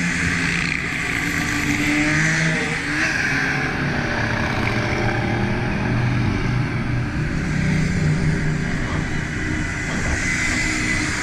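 Motorcycle engine running while under way, its revs rising and falling gently, over steady wind noise on the camera microphone.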